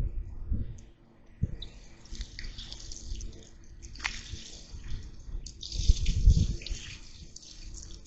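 Water poured onto a campfire to douse it, splashing and hissing on the hot embers in two long pours, with low thumps in between.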